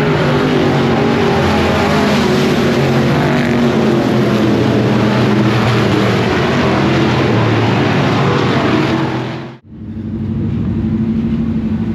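Super Street race cars running on a dirt oval, several engines at full throttle blending into one loud, dense drone. About nine and a half seconds in it cuts off abruptly and gives way to a steady engine hum.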